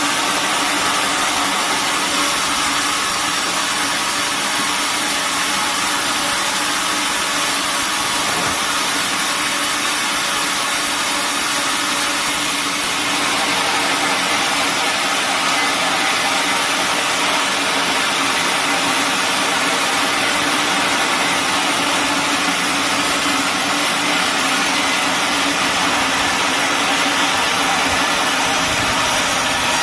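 Sawmill machinery running: a loud, steady mechanical noise from the mill's engine and saw, changing slightly in tone about halfway through.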